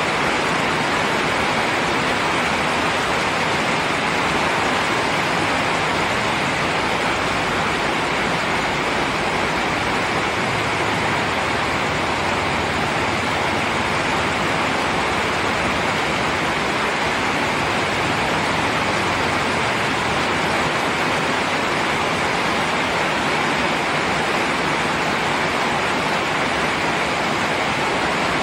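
Steady rain, a constant even hiss with no single drops, thunder or other events standing out.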